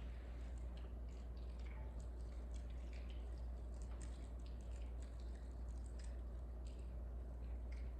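A steady low electrical hum with faint, scattered small clicks and rustles over it.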